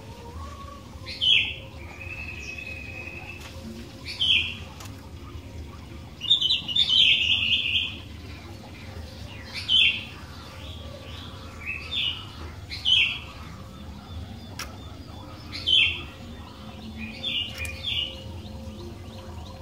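Sooty-headed bulbul (kutilang) calling: short bright chirping phrases repeated every second or two, with a longer burst of chatter about six seconds in. A faint steady low hum runs underneath.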